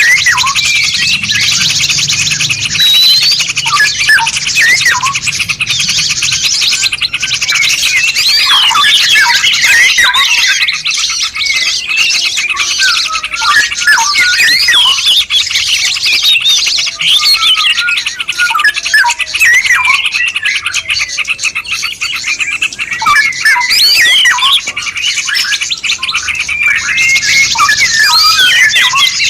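Songbird chorus for masteran training: many birds chirping and singing at once, with dense overlapping short calls and quick rising and falling whistles over a steady high hiss.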